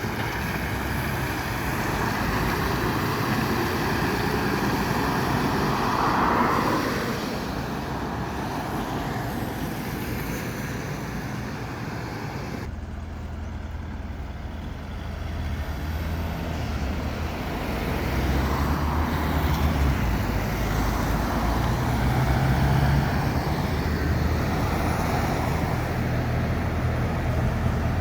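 City road traffic with trucks driving past, a steady rush of engines and tyres. About halfway through the sound changes abruptly, and a heavy engine's low, steady hum takes over.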